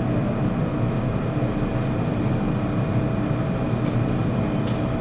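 Steady running hum inside an MTR metro train car, with faint unchanging whine tones over it.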